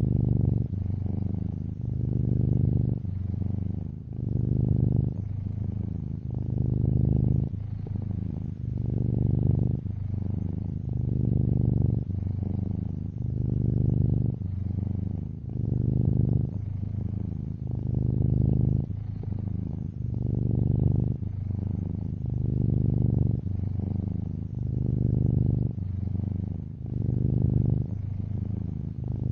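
Domestic cat purring close up, a low steady buzz that swells and eases in a regular rhythm about every two seconds as the cat breathes in and out.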